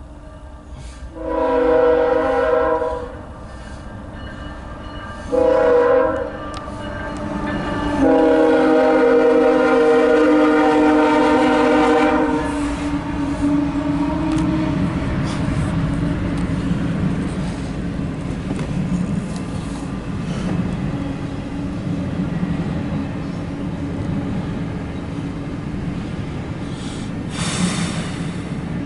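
CSX freight train's diesel locomotive air horn sounding a chord: a long blast, a short one, then a longer one held about four seconds. The locomotive and its intermodal cars then rumble past on the rails with a steady engine hum.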